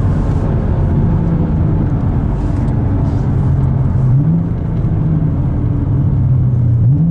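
Car engine running with a steady low rumble, its pitch rising briefly about four seconds in and again near the end as the engine is revved up.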